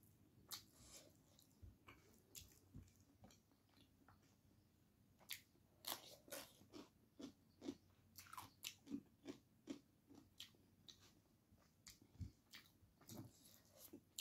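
A person chewing a mouthful of rice and chicken close to the microphone: quiet, irregular wet mouth clicks and smacks, busiest in the middle of the stretch.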